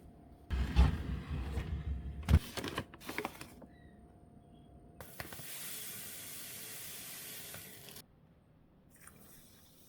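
Kitchen preparation sounds: clattering and knocking of containers and utensils for a couple of seconds, a sharp knock, a few light clicks, then a steady hiss for about three seconds that stops abruptly.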